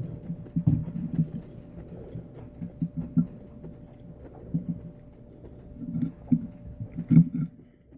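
Close-miked chewing of a mouthful of salad: irregular soft crunches and wet mouth clicks at uneven intervals. A faint steady hum runs underneath.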